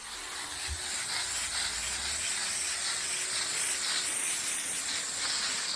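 Water spraying steadily onto garden plants during watering, a continuous hiss.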